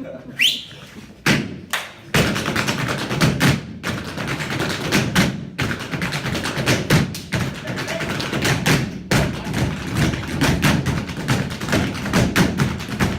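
Solo tap dancing: a few heavy stamps in the first two seconds, then a fast, nearly continuous flurry of taps and stamps on the floor.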